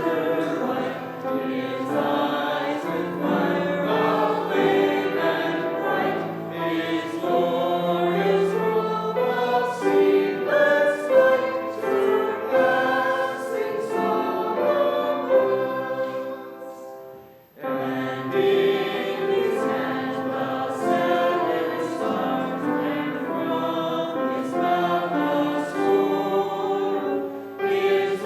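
Church congregation singing a hymn together, with a brief pause about seventeen seconds in before the singing resumes.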